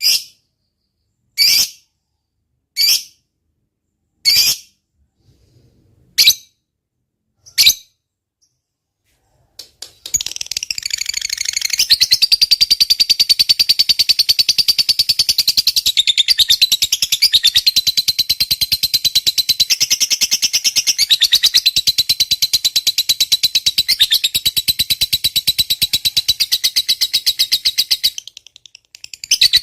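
Lovebird calling: six short sharp chirps about a second and a half apart, then after a short pause a long, very rapid chattering trill (ngekek panjang) that runs unbroken for about eighteen seconds, breaks briefly and starts again near the end.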